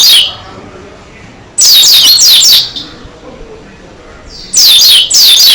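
Pleci dakun white-eye singing in loud bursts of quick, steeply falling high notes, one about a second and a half in and another near the end, with softer high chatter between them.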